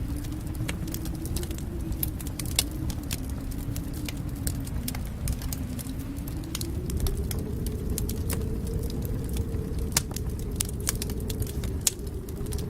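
Wood fire crackling, with frequent sharp pops and snaps over a low steady rumble.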